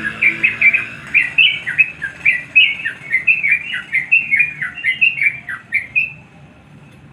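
Yellow-vented bulbul (crucukan) singing a fast run of short, bubbly notes, many sliding downward, in full voice as a call to a rival. The song stops about six seconds in.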